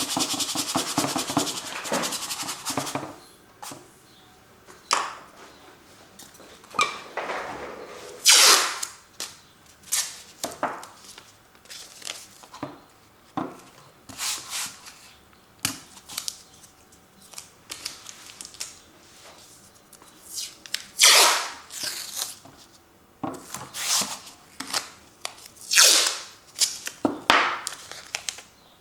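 Acrylic paint being worked onto a canvas: a quick run of rapid scratchy strokes at the start, then separate short scraping strokes every second or so, with a few longer, louder swipes later on.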